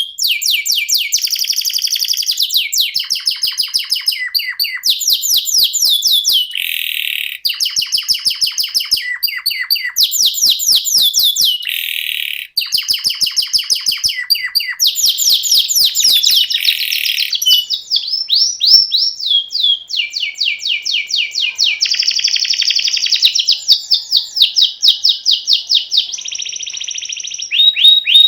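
Domestic canary singing a long, unbroken rolling song: rapid trills of quickly repeated notes, switching to a new trill every second or two, with short held notes between some of them.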